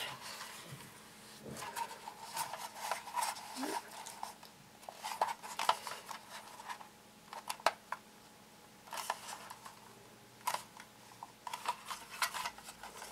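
Plastic toy train-set pieces and their packaging being handled, giving irregular clusters of clicks, crackles and rustles with short pauses between them.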